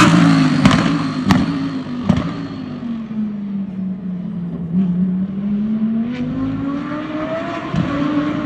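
Lamborghini Huracan GT3 EVO's V10 race engine passing close at speed; its note falls for about four seconds, with three sharp cracks from the exhaust in the first two seconds, then climbs again as it pulls away.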